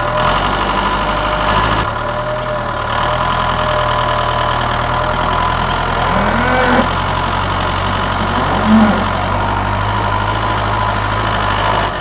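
Tractor engine running steadily, pulling the tractor along at an even pace, with a couple of brief higher-pitched chirps partway through.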